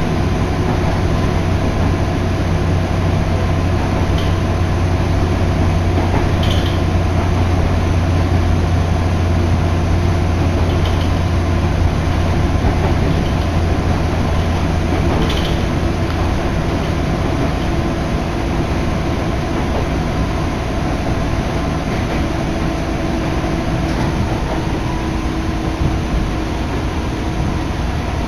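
Steady running noise of an electric train heard from inside the carriage, with a strong low hum that eases off about halfway through, a few faint steady tones above it and a few brief clicks.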